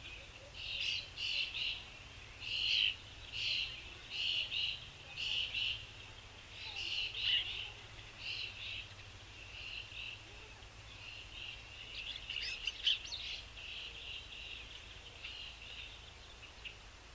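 Small songbirds chirping: a run of short, repeated high chirps, loud and quick in the first half, then softer and more scattered.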